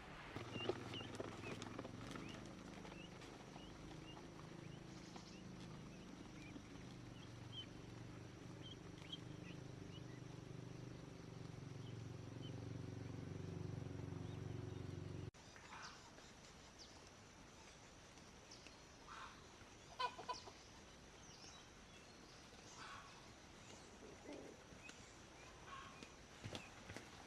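Chickens clucking faintly, with scattered short calls. A low steady hum underlies the first half and cuts off abruptly about halfway through.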